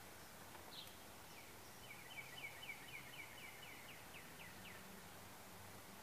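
A small bird singing: a short high note, then a second later a rapid trill of about fifteen quick downslurred notes at roughly five a second, lasting nearly three seconds, faint over a low steady hum.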